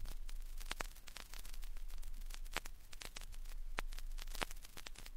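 Vinyl record surface noise in the silent groove between tracks: a faint steady hiss and low hum with sharp pops. Some of the pops recur about every 1.8 seconds, once per turn of the record.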